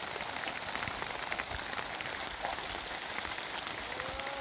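Steady rain falling, with many sharp, separate drop impacts ticking through the steady noise of the downpour.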